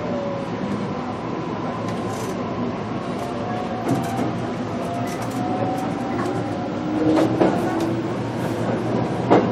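JR Kyushu BEC819 series electric train heard from on board while running, with the steady rumble of the car and the whine of the VVVF inverter and traction motors gently rising in pitch midway. Scattered clicks of wheels over rail joints, the strongest one near the end.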